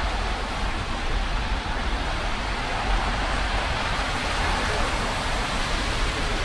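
Steady hiss of rain with a low rumble underneath.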